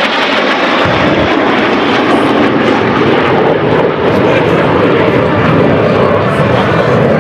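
Jet noise from a section of F/A-18 Hornets, twin turbofan engines, flying over the show, loud and steady; the deep part of the sound comes in about a second in.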